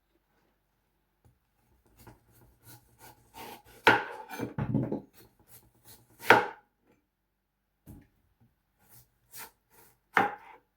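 Knife cutting watermelon on a chopping board: an irregular run of knocks and short slicing sounds, with the loudest chops about four, six and ten seconds in.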